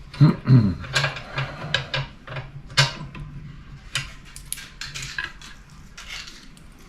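Small metal parts clinking and clattering as bolts, spacers and tools are handled while fitting a bell housing to an engine. The loudest knocks come in the first second, and the clicks thin out after about five seconds.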